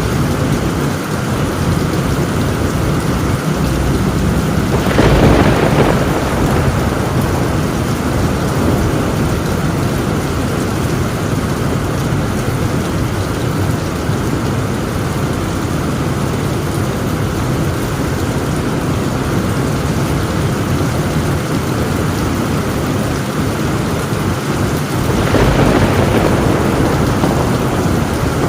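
Heavy rain drumming steadily on a tin roof, with a roll of thunder swelling about five seconds in and another near the end.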